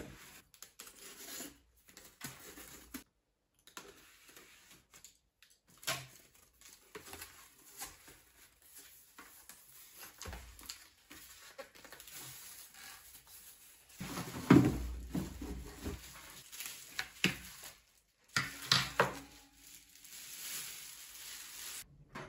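Handling noises in a small room: scattered knocks, clinks and rustling, with the loudest knocks about 14 to 15 seconds in and again around 19 seconds.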